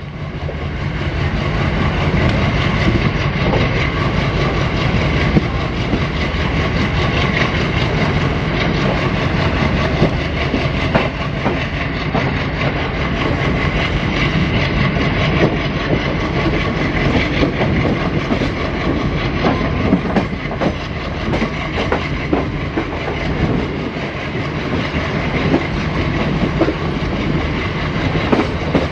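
Twin WDG-3A ALCo diesel locomotives chugging steadily under power, heard from the first coach behind them, over a steady low engine drone. ICF coach wheels clatter over rail joints throughout.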